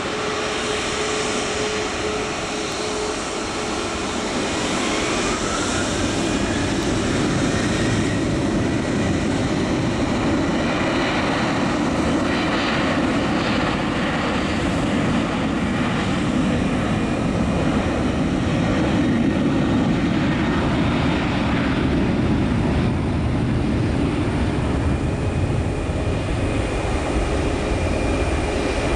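Boeing 737-8 MAX's CFM LEAP-1B turbofan engines running at taxi power: a steady jet rumble and hiss that grows slowly louder. A whine rises in pitch about five seconds in.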